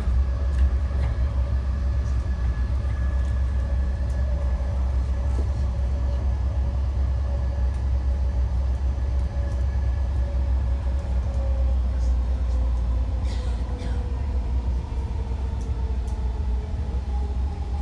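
BART rapid-transit train running, heard from inside the car: a steady low rumble with whining tones that slide slowly in pitch in the second half. A few short clicks or rustles come partway through.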